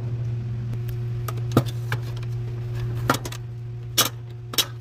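A handful of sharp clicks and knocks as washer brake parts are handled and pushed into place, over a steady low hum. The loudest clicks come about one and a half, three and four seconds in.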